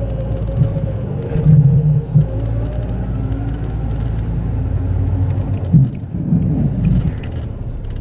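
Jeep engine running low and steady, heard from inside the cab, with brief louder surges about a second and a half in and again around six to seven seconds.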